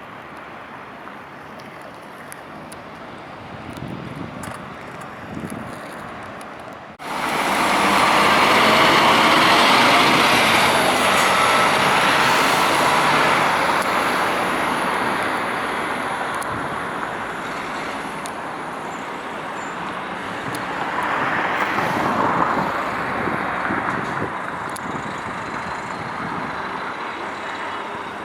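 Scania K440 double-decker coach driving in traffic, its diesel engine and road noise filling the sound. The sound jumps abruptly much louder about seven seconds in, then slowly fades, swelling again a little past twenty seconds.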